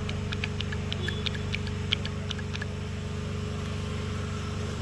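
Variable valve timing oil control solenoid clicking as battery voltage is tapped on and off its terminals: a quick, irregular run of sharp ticks over the first two and a half seconds. Each tick is the plunger moving, the sign of a solenoid that works. A steady low hum runs underneath.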